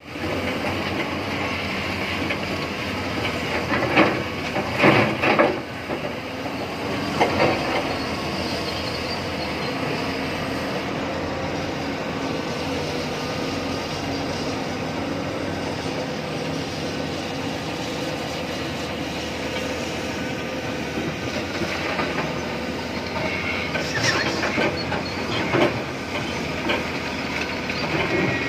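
Tata Hitachi Zaxis 870 LCH hydraulic excavator running steadily under load, heard from the operator's cab, with loud clattering knocks about four and five seconds in and again a few seconds before the end.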